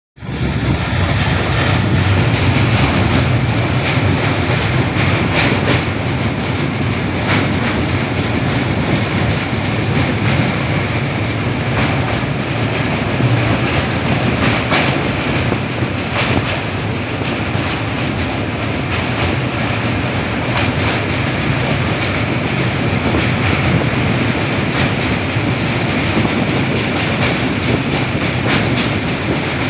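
Passenger train running across a steel truss bridge, heard from the moving coach: a steady loud rumble of wheels on rail, with scattered clicks from the wheels and track.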